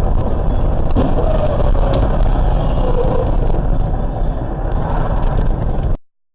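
Car driving noise: a steady low rumble of engine and road that cuts off suddenly near the end.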